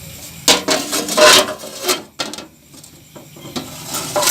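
Tools scraping and knocking against metal parts of a refrigerator under repair: a loud rasping stretch in the first second and a half, then a few separate knocks and clicks.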